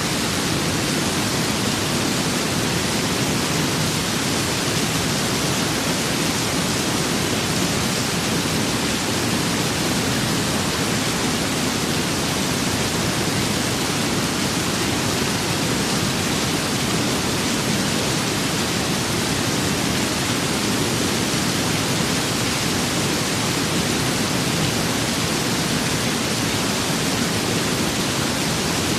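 Steady, even rushing of heavy rain and wind, unchanging throughout.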